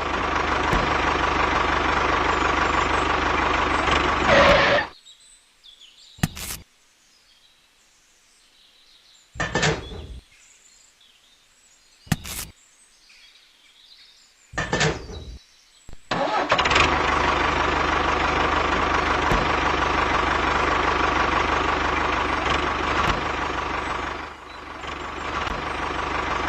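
A motor or engine sound runs steadily for about five seconds and stops. Four short bursts follow a few seconds apart, like brief restarts. It then runs steadily again from about sixteen seconds until shortly before the end.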